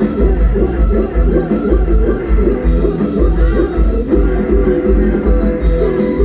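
Amplified live music from a Thai rot hae parade-truck band: a plucked-string lead melody over a heavy, steady bass-drum beat at about two beats a second, played loud.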